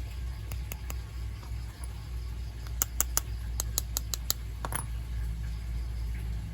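A quick run of sharp, light clicks, about nine in a second and a half, over a steady low hum, with a short scrape just after.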